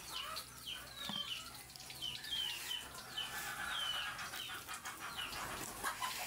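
Small birds chirping: a run of short, falling chirps, about two a second.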